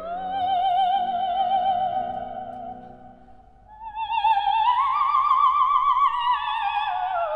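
Operatic soprano singing with a wide, even vibrato: a long held high note, a brief dip, then a climb to a still higher held note that slides down near the end. A soft, low accompaniment sounds under the first note.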